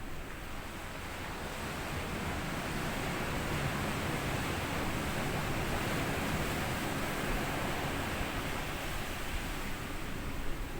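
Small sea waves washing up onto a sandy beach, a wave's wash swelling over the first few seconds, holding, then easing off near the end.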